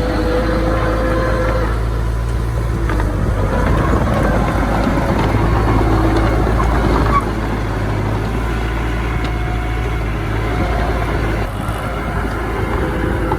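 Diesel engines of earthmoving machinery running steadily under work, the engine note drifting up and down, with a sudden drop in level about seven seconds in.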